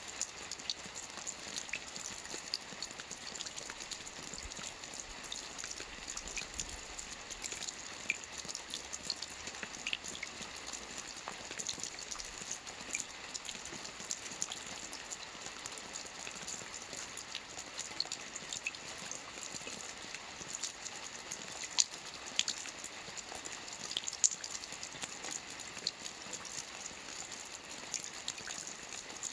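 Soft rain falling on a roof: a steady hiss with many scattered drop ticks, and now and then a louder single drop.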